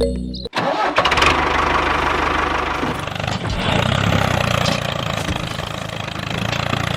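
A small engine running steadily with a fast low pulse, after a snatch of music that cuts off about half a second in.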